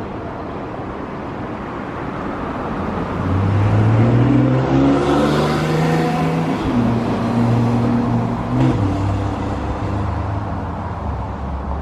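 Porsche 981 Cayman S flat-six engine revving: the note rises and grows louder about three seconds in, holds high with a few steps in pitch, then eases slightly near the end.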